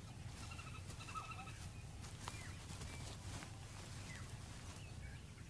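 Faint natural bush ambience with scattered bird calls: a few short whistled notes in the first second or so, then occasional small falling chirps, over a low steady background hum.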